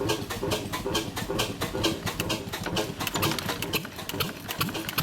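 1923 McCormick-Deering Model M 1.5 hp stationary gas engine running, with a rapid, even clicking of about five beats a second.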